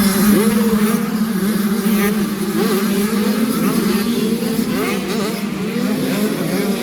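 Several motocross bike engines revving at once, their pitches rising and falling over and over as the riders work the throttles, over a steady engine drone.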